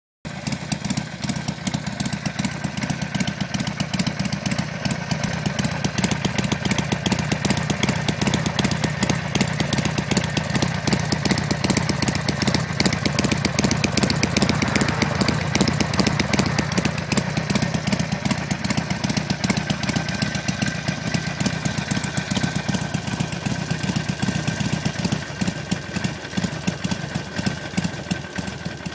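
Harley-Davidson Sportster's air-cooled V-twin idling at low engine speed through Screaming Eagle mufflers: a steady, deep run of exhaust pulses, swelling slightly through the middle and easing off a little near the end.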